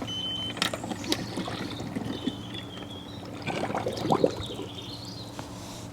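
Water trickling and splashing with scattered clicks, over a steady low hum, as a just-switched-on Aiper Seagull 600 cordless pool robot goes into the pool. The splashing is loudest about three and a half to four and a half seconds in.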